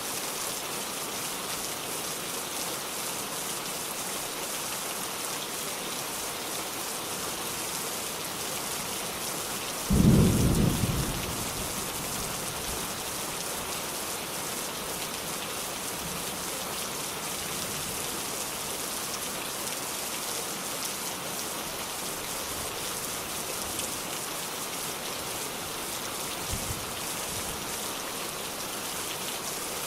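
Steady rain falling, an even hiss of drops on surfaces. About ten seconds in, a single short clap of thunder booms low and loud, then fades within a second or two while the rain goes on.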